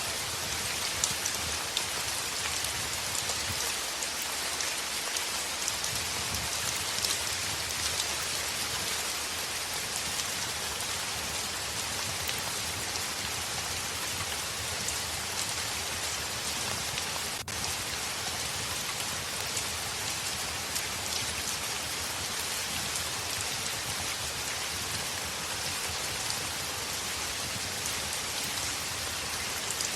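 Heavy rain falling steadily on a window: a dense, even hiss with many small sharp drop ticks scattered through it.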